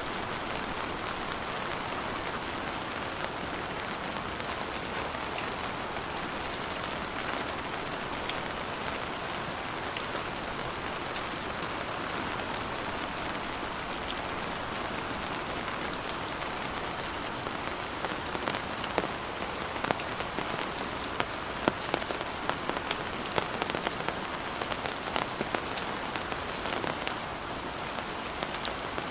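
Heavy rain falling steadily, with scattered sharp drop impacts that come more often over roughly the last ten seconds.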